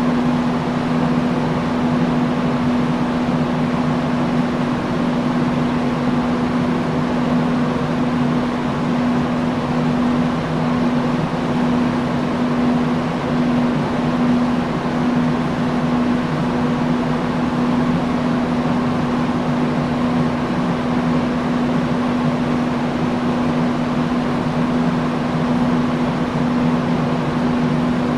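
Industrial fan running steadily: an even rush of moving air over a constant low hum from the motor.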